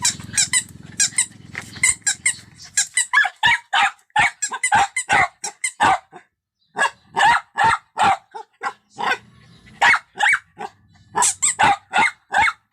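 Puppy barking in a rapid run of short, high-pitched yaps, about three a second, breaking off briefly about six seconds in and then starting again.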